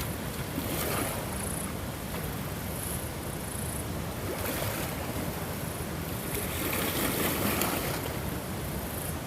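Ocean waves washing ashore, a steady rush that swells and falls back every few seconds, with a faint high chirping repeating over it.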